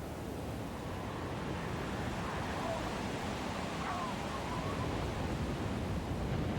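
Steady rushing wind of a snowstorm, with a faint wavering whistle a couple of seconds in.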